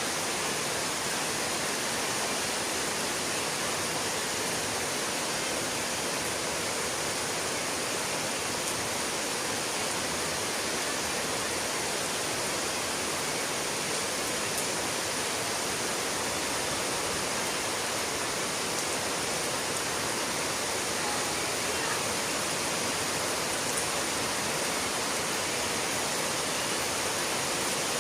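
Steady, even rushing noise with no breaks, like a constant hiss of running water.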